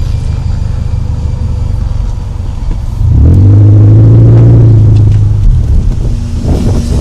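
Car engine and road rumble. About three seconds in, the engine note rises and holds louder as the car accelerates, then eases off before picking up again near the end.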